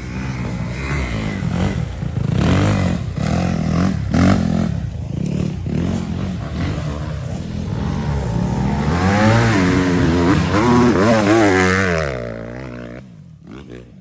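Dirt bike engine revving up and down while riding, its pitch rising and falling over and over; it fades away about twelve seconds in.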